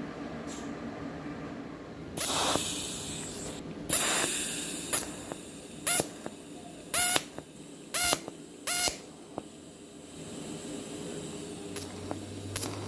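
Aerosol spray can hissing in bursts: two longer sprays, then five short puffs about a second apart.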